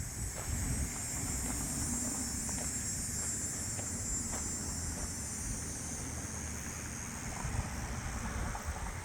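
Wind buffeting the microphone: a steady, fluttering low rumble with an even high hiss over it.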